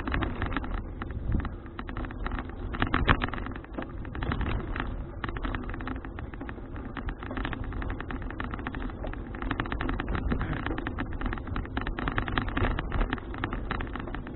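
Riding a folding bicycle, recorded on an action camera: wind buffets the microphone, and the bike and camera mount rattle with many small clicks and knocks.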